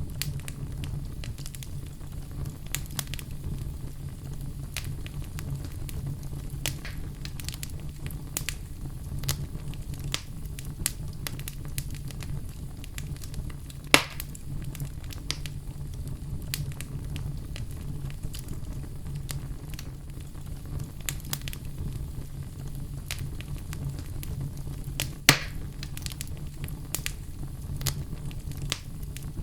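Wood fire crackling in a fireplace: many small clicks and snaps over a steady low rumble, with two louder pops, one about halfway through and one near the end.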